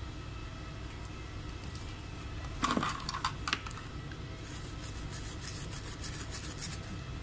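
Small hard objects clicking and clattering: a short clatter about three seconds in, then a run of quick, light clicks.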